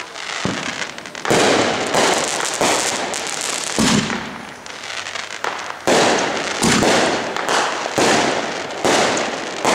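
Aerial fireworks going off: a string of sharp bangs, roughly a second apart, each followed by crackling as the bursts break up.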